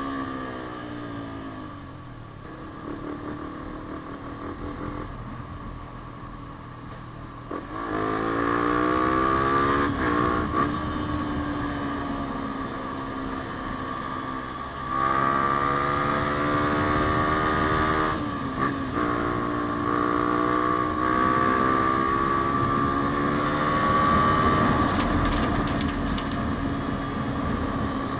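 Yamaha Sniper 150's single-cylinder four-stroke engine breathing through a JVT aftermarket exhaust while riding. The revs fall away at the start and stay low for a few seconds, then it pulls hard up through the gears, with short dips in pitch at each shift.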